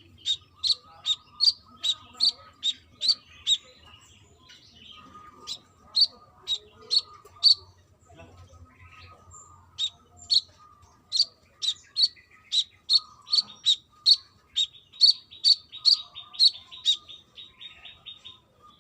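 Brown-throated sunbird (kolibri kelapa) singing: sharp, high chipping notes repeated two or three a second in long runs, with a short break about eight seconds in, the second run running into a fast trill near the end.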